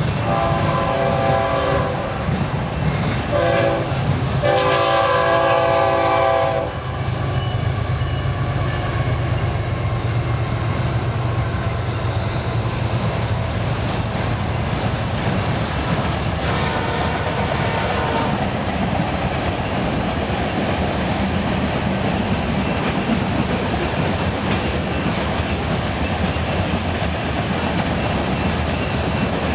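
Diesel freight locomotive horn sounding a multi-note chord in a long blast, a short one and another long blast over the rumble and clatter of passing freight cars. After that comes the steady rolling clatter of BNSF covered hopper cars going by on the near track, with a fainter horn blast about 17 seconds in.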